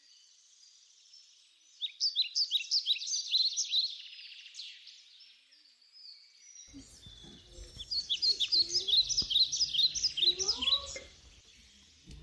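A songbird singing: two bursts of rapid, high chirping song, the first about two seconds in and the second, longer one about eight seconds in.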